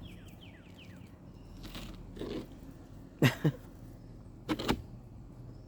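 Puppy chewing on a small piece of wood, with a few sharp crunches and clicks, the loudest about halfway through and again near the end. Faint high chirps sound in the first second.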